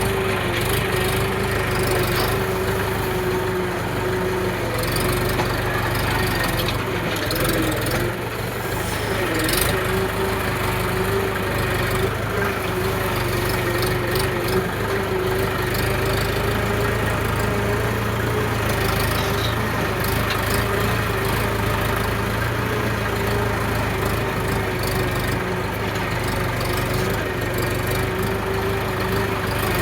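Tractor engine running steadily at a constant speed, its pitch sagging briefly about eight seconds in.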